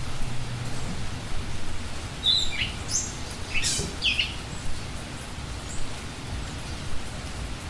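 Birds in the forest give a few short, high chirps near the middle, some sliding quickly down in pitch, over a steady hiss of outdoor noise.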